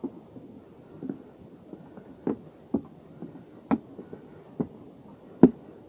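Footsteps of hikers climbing the wooden steps of a boardwalk trail: dull knocks of uneven loudness, about two a second, with a louder step near the end.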